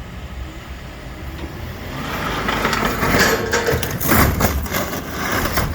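A machine engine rumbles, then a gutted scrap car dropped from about 40 feet crashes down. From about two seconds in comes a run of crunching metal impacts, loudest around three and four seconds in.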